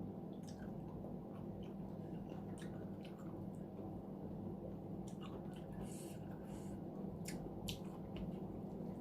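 Close-miked chewing: a person eating with irregular wet smacks and clicks of the mouth, busiest in the second half. A steady low hum runs underneath.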